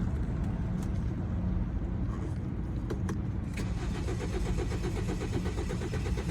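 2013 BMW X3 engine cranking on its starter without catching, a steady churn that settles into an even rapid pulse partway through. It is the crank-no-start of a fuel pump that is not running.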